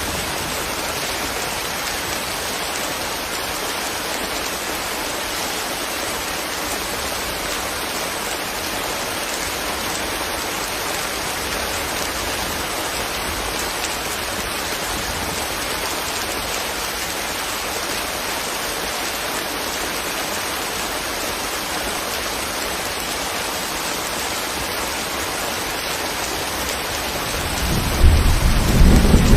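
Steady rain falling, an even hiss. About a second and a half before the end, a deep rumble swells in over it, louder than the rain.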